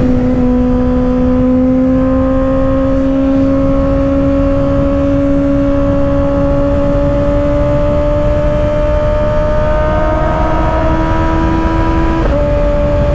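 2024 Kawasaki ZX-6R's 636 cc inline-four engine, through an M4 aftermarket exhaust, pulling at speed with its pitch climbing slowly and steadily, then dropping a step near the end as it shifts up, over heavy wind noise.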